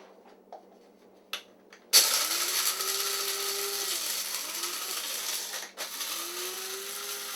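A small electric motor appliance starts up about two seconds in with a loud whirring hiss, its tone rising as it spins up. It cuts out briefly near the end and starts up again.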